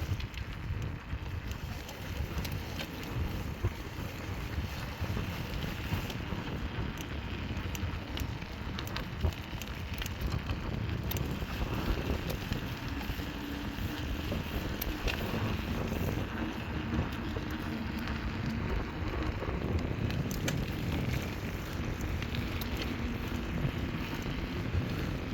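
Wind buffeting the microphone in a low, uneven rumble, with scattered crackles of footsteps on dry forest leaves and twigs.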